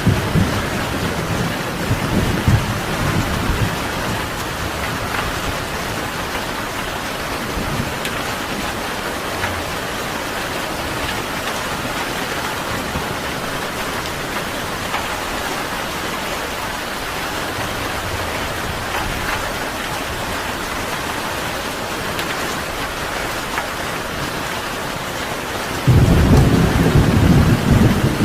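Steady heavy rain falling, with a low thunder rumble dying away in the first few seconds. Near the end a loud rumble of thunder breaks in suddenly.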